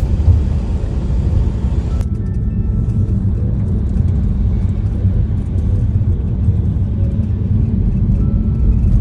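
Steady low rumble of a car on the move, with no clear separate events. The higher hiss drops away abruptly about two seconds in.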